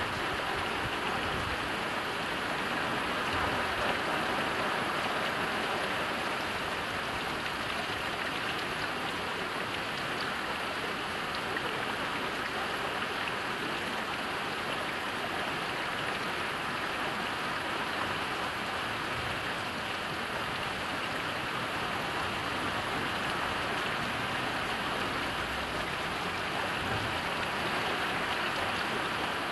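Heavy rain falling steadily, an even hiss of rain with fine drop patter.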